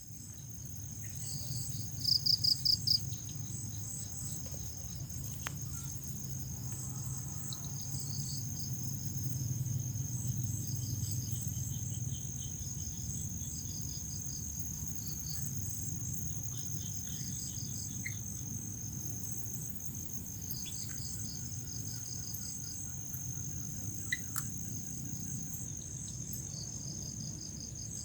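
Crickets chirping at dusk: one cricket trilling in a continuous high steady tone while another chirps in short pulsed bursts every few seconds, the loudest burst about two seconds in. A low steady rumble lies underneath.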